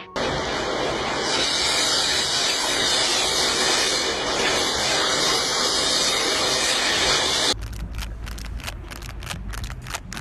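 A steady, loud hiss, then about seven and a half seconds in it cuts off suddenly into a run of quick crackles and clicks over a low hum.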